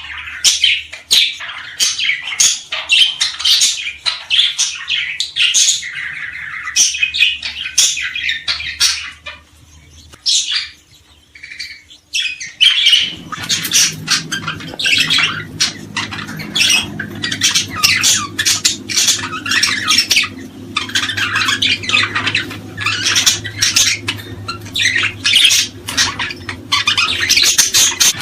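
A flock of small birds chirping and chattering in quick, dense runs of calls, some of them harsh. There is a brief lull about ten seconds in, and from about halfway a low steady hum sits under the birdsong.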